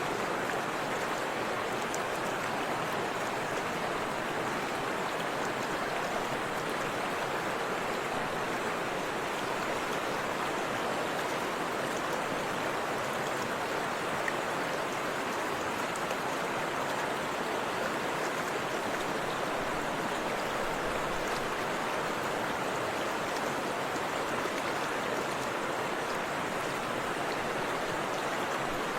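Forest river and waterfall rushing, a steady even roar of flowing water.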